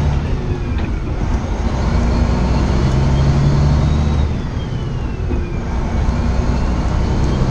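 Semi truck's diesel engine running while driving, a steady low drone with a faint whine that rises slowly and then falls through the middle. The truck is running without a working turbocharger after a turbo failure.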